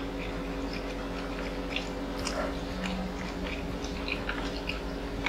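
Close-miked chewing and mouth sounds: scattered soft wet clicks and smacks of food being chewed, over a steady low hum.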